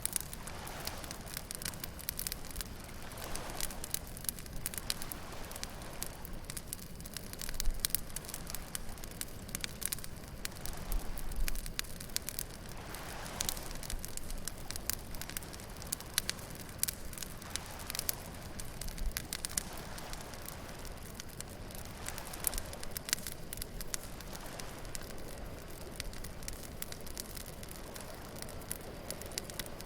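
Beach bonfire crackling with frequent sharp pops and snaps, while waves wash in softly every few seconds.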